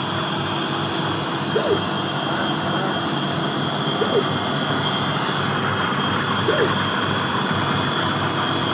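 Ice maker machine running with a steady hum made up of several even tones. A short squeaky chirp recurs about every two and a half seconds, four times over.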